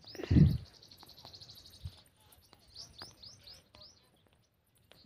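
Small birds chirping in quick repeated series, with a brief loud low thump about half a second in.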